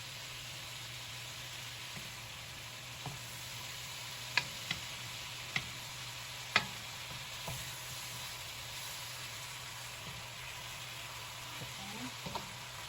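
Chicken thigh pieces frying in hot coconut oil in a pan, a steady sizzle throughout. A few sharp clicks stand out between about four and seven seconds in, with softer ones near the end.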